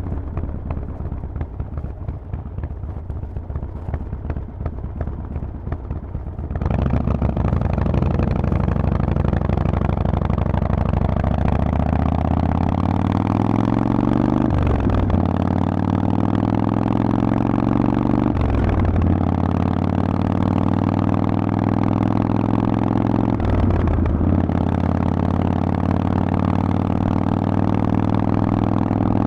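Harley-Davidson Forty-Eight's 1200 cc V-twin through a Vance & Hines exhaust, running at low throttle. About six seconds in, it opens up and pulls hard: the pitch rises, with three brief breaks for upshifts, each followed by a new climb.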